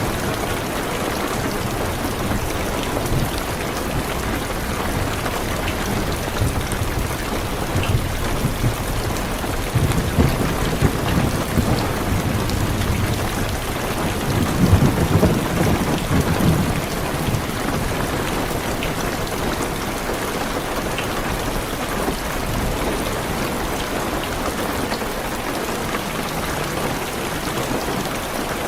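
Heavy rain falling steadily on a car's roof and windows, with a low roll of thunder that builds about a third of the way in, peaks around the middle and fades away.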